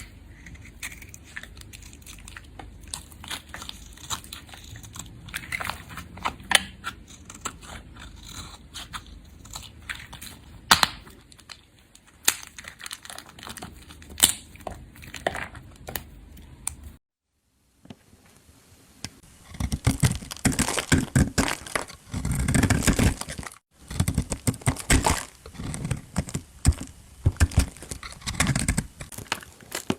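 A knife cutting through dry soap: scattered crackling and crisp clicks at first, then after a brief break, denser, louder crunching and scraping as the blade shaves through the soap.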